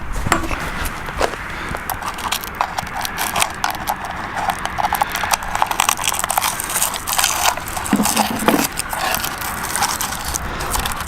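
Hands working the battery hold-down in the plastic battery compartment of an ARRMA Granite 4x4 RC truck: a run of irregular plastic clicks and knocks as the LiPo pack is fitted and the hold-down is pulled up and tightened.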